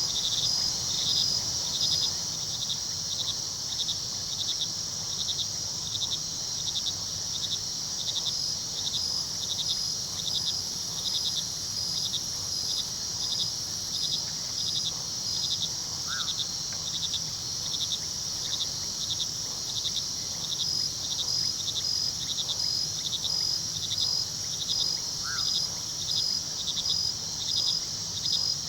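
Crickets chirping at night, a rhythmic chirp of about two a second over a steady high trill, with the low, even rush of river water underneath. Two faint short calls sound in the second half.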